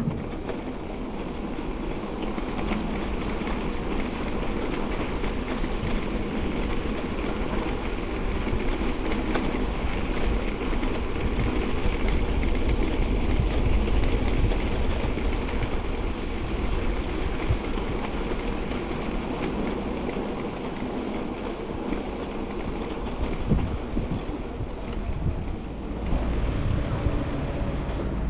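Steady rolling noise of a bicycle ride, tyres on the path and the frame rattling, with wind rumbling on the mounted microphone; a little louder around the middle.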